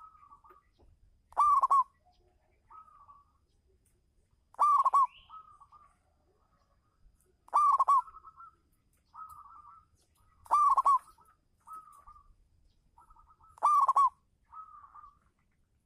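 Zebra dove cooing: five loud calls about every three seconds, with softer, fainter coos between them.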